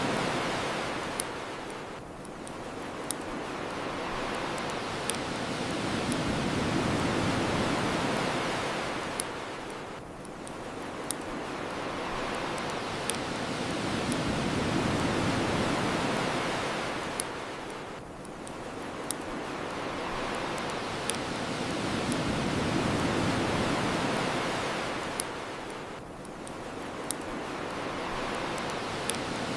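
Ocean waves washing onto a shore, swelling and ebbing about every eight seconds, with sharp pops from a crackling bonfire every second or two.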